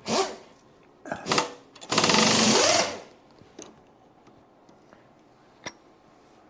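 Handheld power tool run in short bursts: a brief one at the start, two more about a second in, then a steady rapid rattle lasting about a second, as a part is taken out. A faint click follows near the end.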